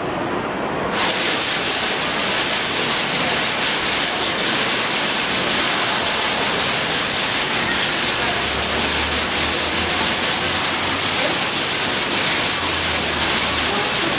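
Falling water from a graphic waterfall (digital water curtain) pouring and splashing with a steady rush, which comes in suddenly about a second in.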